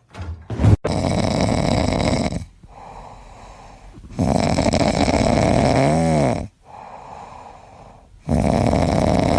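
Loud snoring: three long snores about four seconds apart, with a quieter breath between each.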